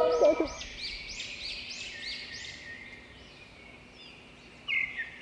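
Birds calling: a run of about eight high, arched chirps at roughly three a second that fade away, then a few sharper, shorter chirps near the end.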